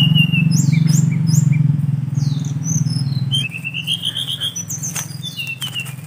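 Wild birds chirping and calling, with short falling notes and a rising trill about three and a half seconds in, over a steady low hum.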